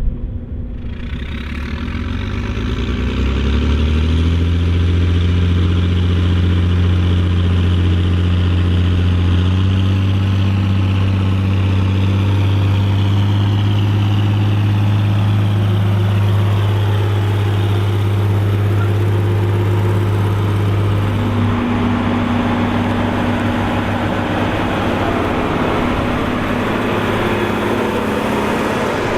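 Volvo BM 2654 tractor's diesel engine pulling a five-furrow plough: its pitch climbs over the first few seconds, then it runs steadily under load, with a shift in tone about two-thirds of the way through.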